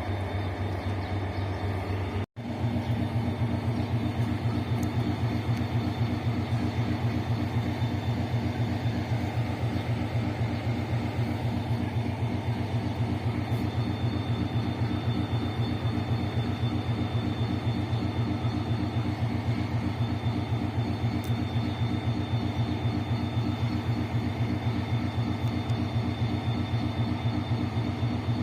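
Diesel locomotive 040-GT565 running steadily: a low engine rumble with a fast, even pulse. The sound drops out briefly about two seconds in, then comes back with a stronger low hum.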